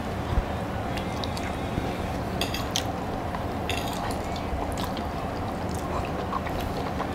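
Eating sounds of lechon pork skin being bitten and chewed, wet and squishy, with a few short clicks around the middle, over a steady background hum.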